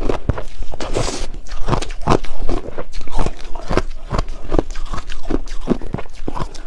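Close-up crunching of chunks of purple ice being bitten and chewed, a quick irregular run of sharp crunches, about two or three a second.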